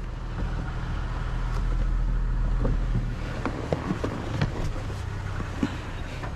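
Vehicle engine idling with a steady low hum, with scattered light knocks and rustles over it.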